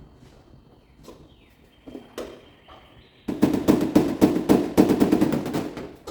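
Rapid tapping on the sheet metal of a car hood during paintless hail-dent repair, about ten light taps a second for nearly three seconds, starting a little over three seconds in after a few scattered knocks.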